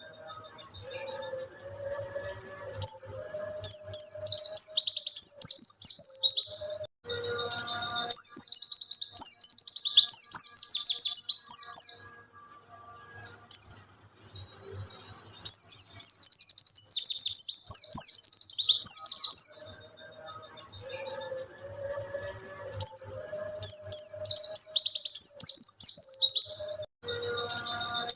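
White-eye (pleci) songbird singing in long, rapid, high-pitched twittering phrases of a few seconds each, separated by short pauses, with fainter lower chirps in the gaps.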